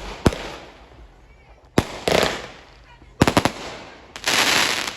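Fireworks going off: a string of sharp bangs, some followed by a crackling hiss. There is a quick run of bangs a little past three seconds in, then a louder crackle lasting under a second near the end.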